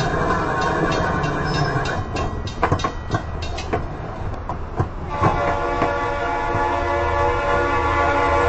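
Freight train rolling by with a steady rumble and wheels clacking over rail joints, then a diesel locomotive's air horn sounds about five seconds in and holds.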